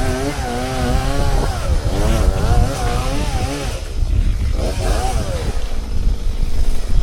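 Two-stroke chainsaw running, its engine pitch repeatedly rising and falling as it revs and takes load in the cut, over a heavy low rumble. The pitched engine note fades for a moment about four seconds in, then comes back.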